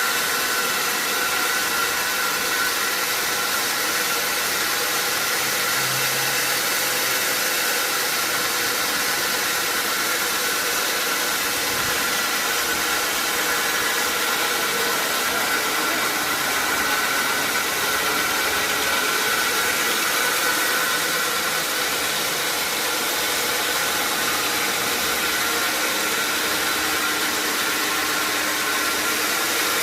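Sawmill saw and machinery running steadily: a constant loud hiss with a faint steady whine, unchanging throughout.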